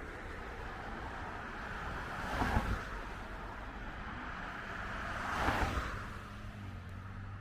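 Street traffic: two cars pass one after the other, each a rising then falling rush of tyre and engine noise, the second about three seconds after the first.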